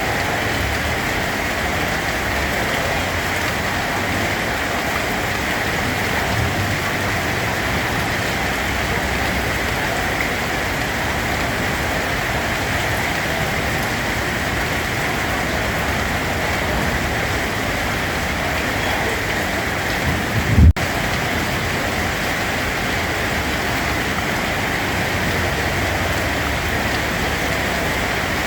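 Steady rain falling, an even continuous hiss. A brief low thump stands out about two-thirds of the way through.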